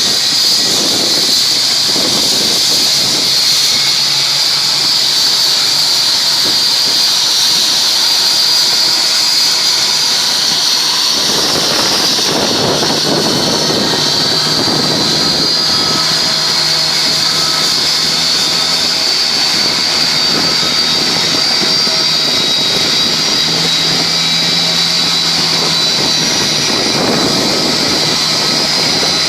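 Jet aircraft turbine running with a steady high-pitched whine over a rushing noise, with the lower rumble swelling twice along the way.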